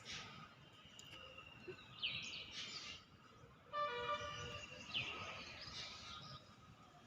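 Small birds chirping, several short sharp descending chirps spread through the clip. A brief pulsing, buzzy tone sounds about four seconds in.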